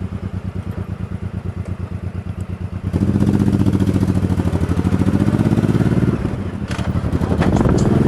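Motorcycle engine running with an even, low pulse, getting louder about three seconds in, dipping briefly just after six seconds, then rising again.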